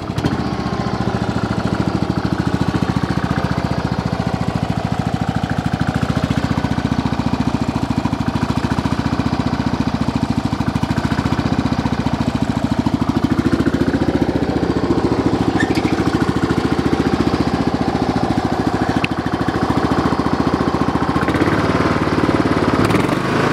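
Kohler Courage small engine running steadily with a fast, even beat, freshly started. Its note shifts somewhat about 13 seconds in.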